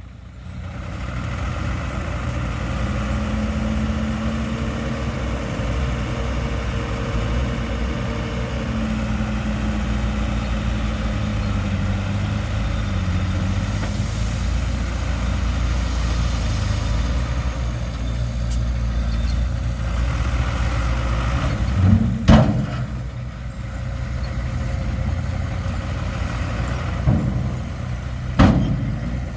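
Diesel engines of heavy earthmoving machinery running steadily, with two loud knocks, one about two-thirds of the way in and one near the end.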